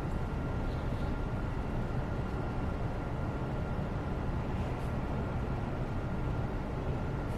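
Steady background noise, heaviest in the low end, with a faint steady high tone running through it. A faint tick sounds about five seconds in.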